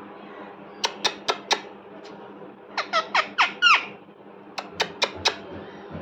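Pet parrot calling in three quick runs of four short, sharp calls. The middle run's calls each slide down in pitch.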